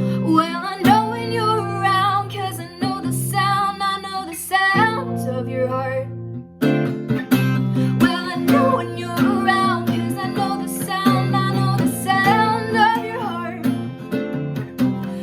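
Strummed acoustic guitar with a voice singing over it, breaking off briefly about six seconds in before going on.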